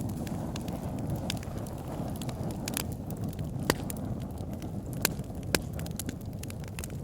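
Campfire burning with a steady low rush of flame and irregular sharp wood crackles and pops, a few louder snaps in the middle.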